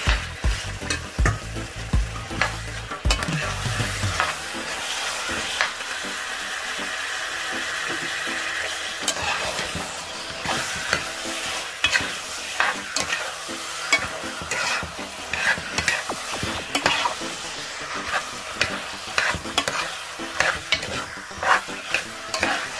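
Chicken pieces sizzling in hot oil and stew sauce as they are stirred with a spatula: a steady frying hiss with irregular scrapes and taps of the spatula against the metal pot.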